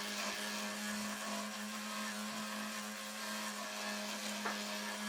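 An electric power tool's motor running steadily, with a constant hum and hiss.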